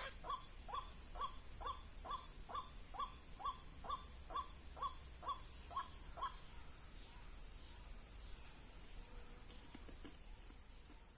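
White-breasted waterhen calling: a single harsh note repeated about twice a second, each note dropping slightly in pitch, stopping about six seconds in.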